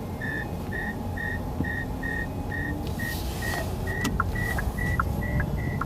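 Electronic warning beeps inside an electric car's cabin, about two a second, creeping up in pitch and getting slightly quicker, with a second, lower beep joining about four seconds in. Low road and motor noise runs underneath.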